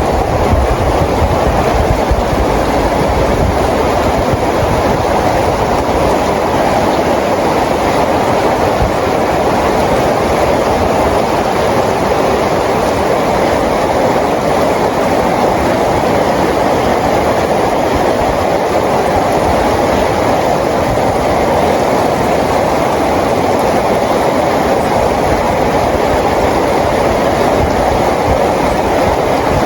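Steady, loud rainfall: an even rushing hiss of heavy rain with no separate drops or rhythm standing out.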